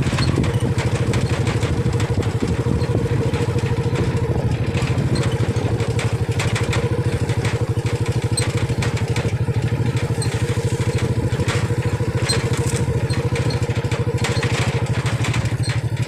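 Small motorcycle engine running steadily, with a rapid even pulse.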